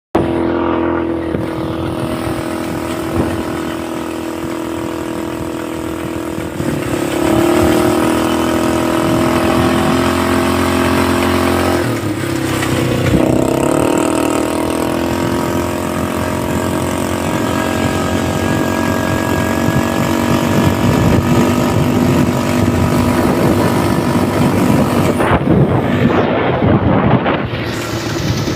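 ATV engine running steadily while riding. Its pitch rises about seven seconds in, then dips and climbs again around twelve to thirteen seconds, with rougher rumbling near the end.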